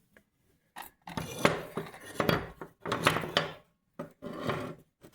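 Metal baler knotter parts being handled and set down on a bench: about five short bouts of clinking and scraping, separated by brief pauses.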